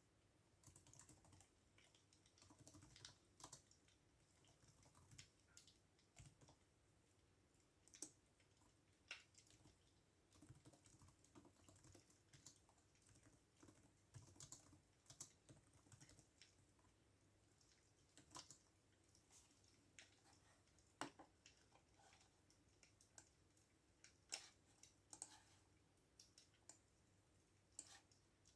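Faint computer keyboard typing: irregular soft keystrokes, some single and some in short quick runs, with pauses between them.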